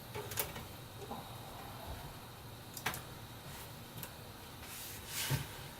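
A few light, sharp clicks about a second or more apart, then a short rustle near the end, as PC power and data cables are handled and tucked inside the case.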